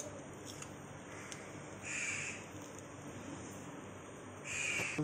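A bird's short harsh call, twice, about two and a half seconds apart, over a faint steady background.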